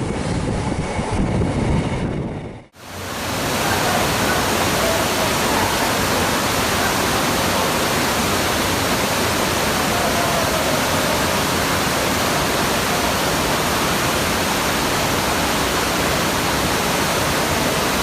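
Wind buffeting the microphone with surf, rumbling, then a sudden cut to a steady, even rushing hiss with a faint wavering whistle in it.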